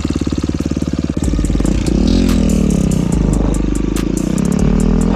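2015 Suzuki RM-Z250 dirt bike's single-cylinder four-stroke engine chugging at low revs. About a second in it gets louder and pulls away, its pitch rising and falling as the throttle opens and closes.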